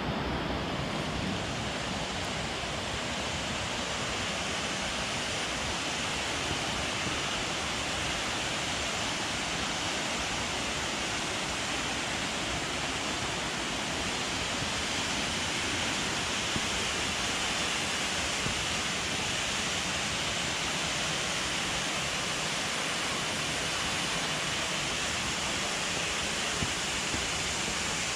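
Rocky Brook Falls running: a steady, even rush of falling water.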